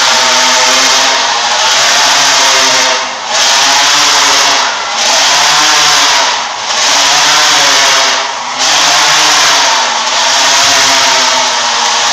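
Motorcycle engines running loud inside a steel globe of death, their pitch rising and falling in a regular cycle about every one and a half to two seconds as the riders loop the sphere.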